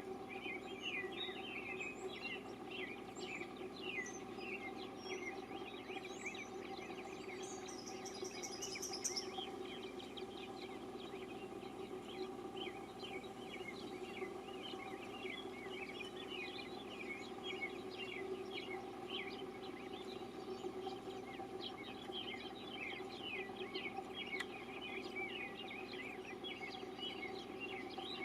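Small birds chirping and twittering repeatedly, with a quick, high run of notes about nine seconds in, over a steady low hum.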